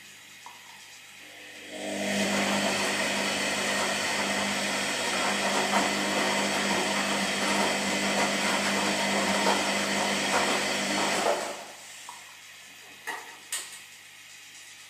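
Washing machine running for about ten seconds, a steady motor hum under a grainy churning noise, then stopping, followed by two short clicks.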